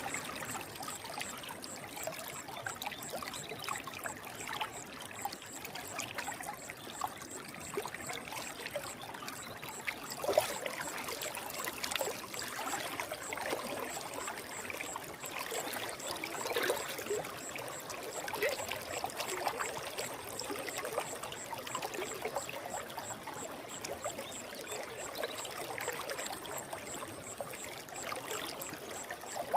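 Forest stream flowing and trickling over rocks, a steady babble of water with small splashes throughout.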